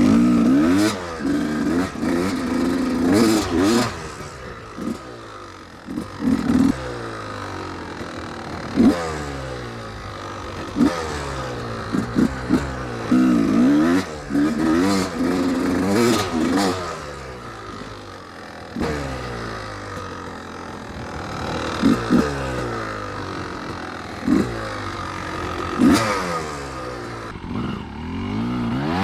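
1993 Yamaha YZ250 two-stroke dirt bike engine revving up and easing off again and again, its pitch climbing and falling many times over. Sharp knocks and clatter are mixed in.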